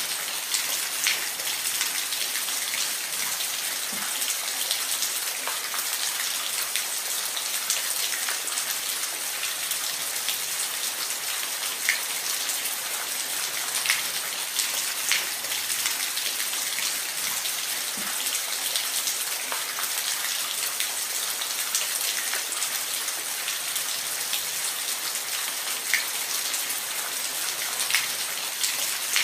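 Steady rain falling on a surface, an even hiss with scattered louder drop ticks.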